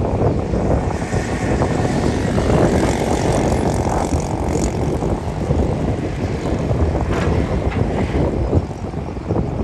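Diesel engine of heavy earthmoving machinery running steadily at work.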